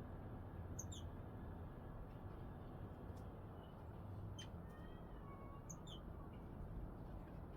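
Small songbirds calling: short, high chirps about a second in, again around four and a half seconds and near six seconds, with a few thin whistled notes in between, over a steady low background rumble.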